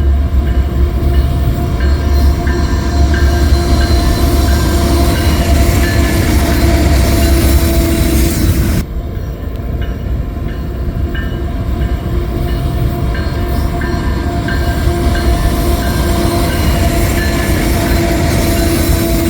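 Freight train rolling close by: a heavy, continuous rumble with a steady tone held over it. The low rumble drops abruptly about nine seconds in, and the train sound carries on after it.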